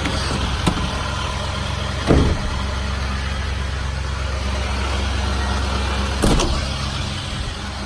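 Chevrolet 4500's Duramax 6.6-litre V8 turbodiesel idling steadily, with a few short knocks over it, the loudest about two seconds in and another about six seconds in.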